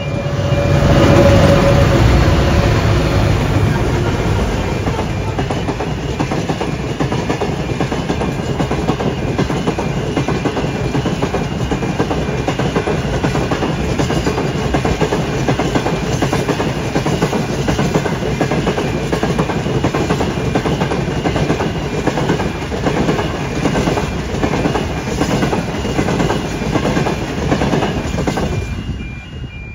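Diesel freight train passing close by: the locomotive's engine is loudest about one to three seconds in, then a long string of covered hopper wagons rolls past with a steady clickety-clack of wheels over the rail joints. The sound drops away near the end.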